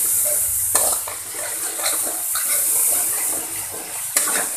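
Ground spice paste with salam leaves and lemongrass sizzling in hot oil in a metal wok while a metal spoon stirs and scrapes it, with two sharp knocks of the spoon, about a second in and near the end.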